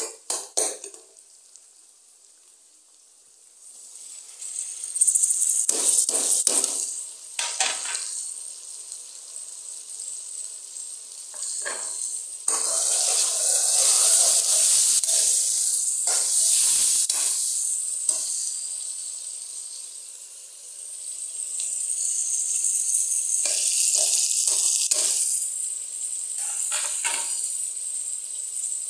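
Food sizzling in hot oil in a pan, a hiss that swells and fades, with a utensil stirring and knocking against the pan several times.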